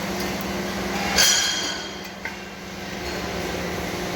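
Metal clank with a brief ring, like a steel muffler pipe knocked or set down against metal, about a second in, and a lighter click a second later, over the steady hum of a pipe-cutting machine's motor.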